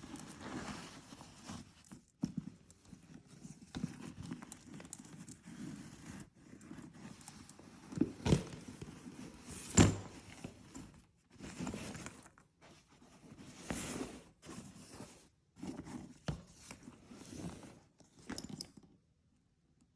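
Packaging and a handbag being handled during an unboxing: irregular rustling and crinkling in short bursts, with a few sharp clicks or knocks, the loudest about eight and ten seconds in. It goes nearly silent just before the end.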